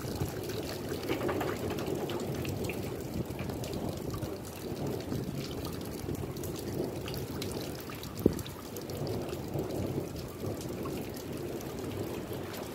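Steady thunderstorm rain, with many drops tapping close by and one sharper tap about eight seconds in.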